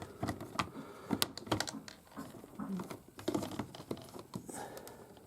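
Irregular light clicks and taps of thin plastic toy-playset pieces being handled and pressed into their tabs.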